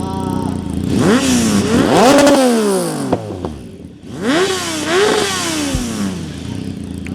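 Kawasaki ZX-10R sport bike's inline-four engine revved hard twice, each rev climbing steeply and then dropping back to idle, with a few sharp cracks from the exhaust as the first rev falls.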